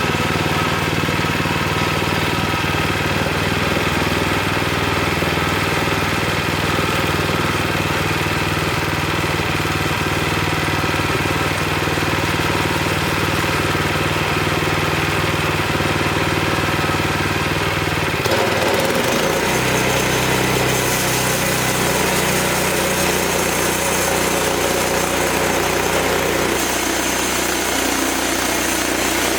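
Wood-Mizer LX25 sawmill's gas engine running steadily, its tone shifting abruptly about 18 seconds in as the engine speed or load changes.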